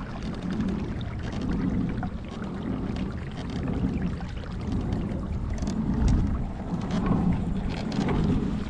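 Kayak paddle strokes pulling through the water, swelling and fading in a steady rhythm, with splashes and drips from the blades and a low rumble of wind on the microphone.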